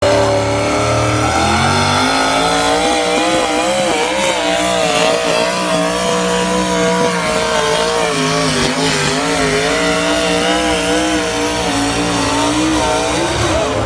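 Pickup truck engine running hard at high revs while pulling the sled. Its pitch rises about two seconds in, then wavers up and down as the truck bounces, the tires struggling to hook up.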